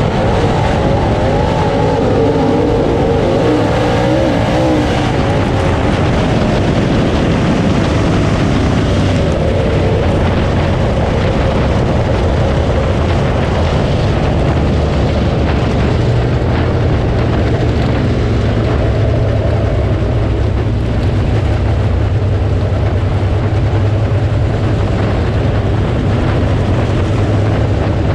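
Dirt late model race car's V8 engine heard from an onboard camera, running hard at racing speed. Its pitch rises and falls over the first few seconds, then holds fairly steady.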